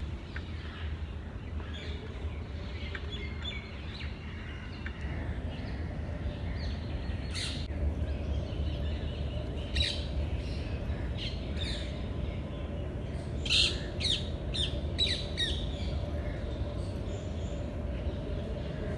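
Birds chirping and calling, with short sharp calls coming thick and fast in the second half, over a steady low rumble.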